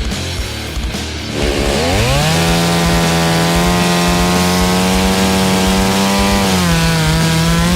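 Chainsaw revving up about two seconds in and running at high speed, its pitch dropping a little near the end before it cuts off, with background music under it.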